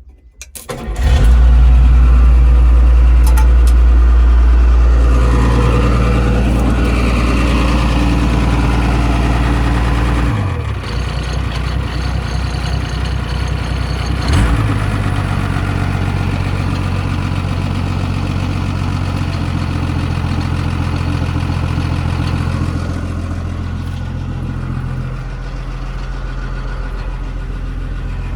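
Isuzu 6BD1 six-cylinder diesel of a Hitachi UH06-5 excavator, on a machine left standing for 30 years, starting suddenly about a second in and then running loudly. Its note shifts briefly around ten seconds and again, with a sharp knock, around fourteen seconds in, and it settles quieter from about 23 seconds in.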